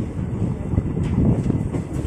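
Shaktipunj Express passenger train running along the track, a steady low rumble of the moving coach.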